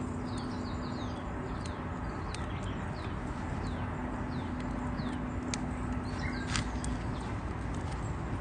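Small birds calling in a run of short, falling chirps over a steady background hiss, with a few sharp clicks, the clearest about five and a half and six and a half seconds in.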